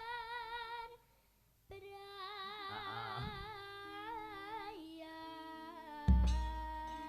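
A high singing voice holding long notes with a strong waver, in Javanese sinden style, broken by a short pause about a second in. Steady accompanying instrument notes come in near the end, with one loud deep strike about six seconds in.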